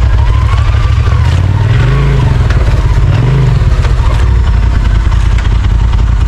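Side-by-side UTV engine running under load on a trail. It revs up and eases off twice, about two and three seconds in.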